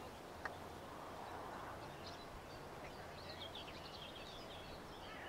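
Faint outdoor ambience with small birds chirping on and off, mostly in the second half.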